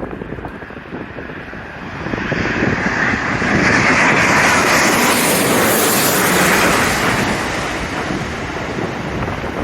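Jet airliner passing low overhead on landing approach: its roar builds over a couple of seconds, peaks for about four seconds, then fades. Strong wind buffets the microphone throughout.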